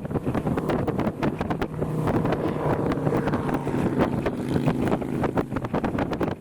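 Gusty wind blowing across the camera microphone: a steady low rumble broken by many short crackles.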